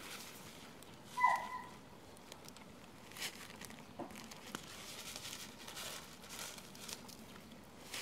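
Plastic spice packet crinkling and rustling as it is handled and opened, with a few light clicks. A brief high squeak sounds about a second in.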